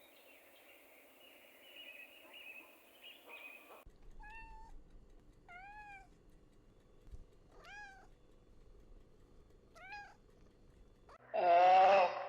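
Cat meowing: four short, faint meows spaced a second and a half to two seconds apart, then a much louder, longer meow near the end.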